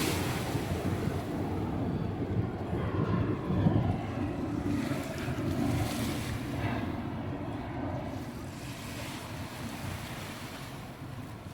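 Small waves washing onto a sandy beach in repeated swells, with wind on the microphone. Underneath runs a low engine rumble that slowly fades away.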